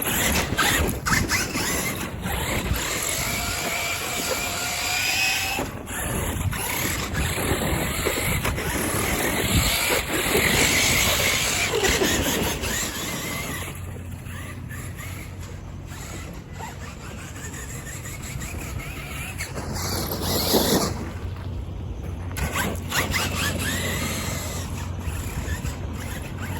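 Losi LMT 1/8-scale RC monster truck driving on a 2S battery: its electric motor whines, rising and falling in pitch with the throttle, over tyre and drivetrain noise with scattered knocks. It gets quieter about halfway through, with one loud burst of motor a little before the end.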